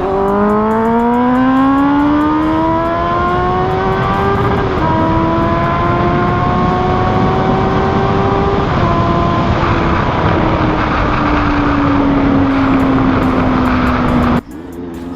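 Honda CBR motorcycle with an SC Project aftermarket exhaust accelerating hard: the engine note climbs, steps down slightly with upshifts about five and nine seconds in, then slowly sags in pitch. Near the end the throttle snaps shut and the note cuts off abruptly, then it starts climbing again.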